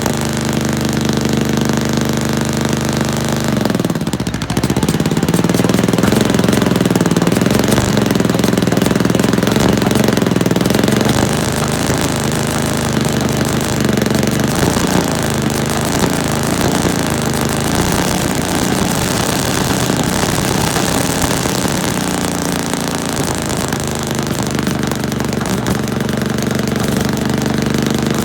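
Caterpillar D9 bulldozer being cold-started with its small gasoline pony (pup) motor: an engine runs steadily, then about four seconds in the sound briefly drops and comes back louder and rougher for several seconds before settling into a steadier run.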